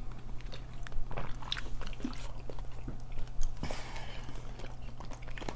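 Close-miked mouth sounds of eating and drinking: swallowing water and chewing, with scattered small clicks and a brief breathy rush about two-thirds of the way in, over a low steady hum.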